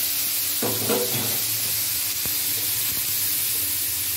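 Wet boiled chickpeas sizzling in hot mustard oil and spices in a frying pan, giving off a steady hiss as their water hits the oil and turns to steam. There is a single light click a little past the middle.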